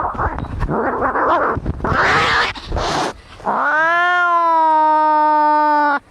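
Angry cats fighting: about three seconds of harsh, noisy screeching and spitting, then one long, steady, drawn-out yowl that cuts off suddenly near the end.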